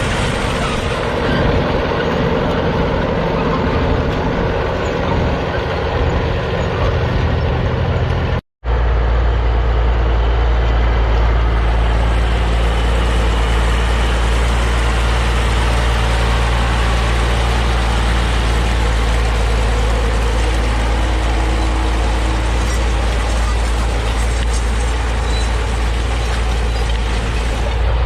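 Tractor diesel engine running steadily under load while pulling a plough. About eight seconds in the sound cuts out for a moment, then returns as a steadier, deeper engine hum.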